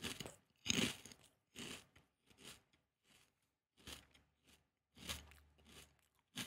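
Chewing a crispy fried fish skin snack: irregular crunches, loudest in the first second, then quieter, more widely spaced chews.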